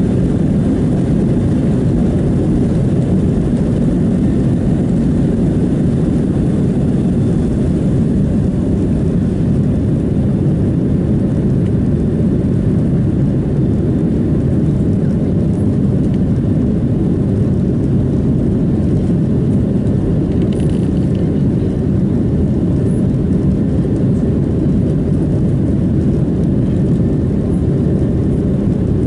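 Steady cabin roar inside a Boeing 737-700 in flight: the CFM56-7B engines and rushing airflow, a deep, even noise that holds constant.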